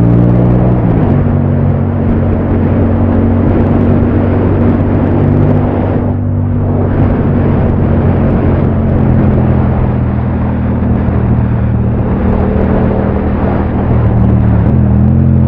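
Yamaha MT-07's parallel-twin engine running under way, with wind rush over the microphone. The engine note drops about a second in, holds steady through the middle, and rises again near the end.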